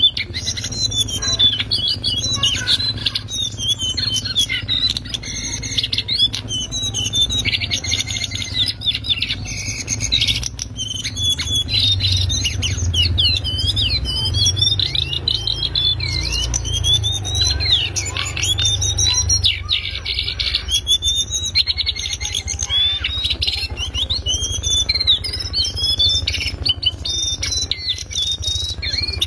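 Brown shortwing (cingcoang coklat, jongkangan) singing a loud, fast twittering song of rapid chirps and quick rising and falling trills, without pause, over a low rumble.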